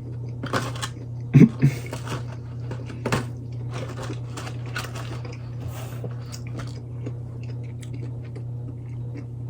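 A person biting into and chewing breaded chicken nuggets close to the microphone, with irregular crunching and mouth sounds, the loudest in the first three seconds. A steady low hum runs underneath.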